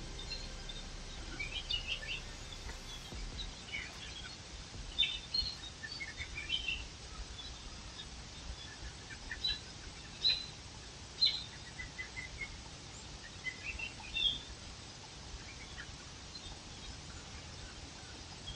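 Small birds chirping: short, scattered high chirps, some in quick little runs, over a steady background hiss.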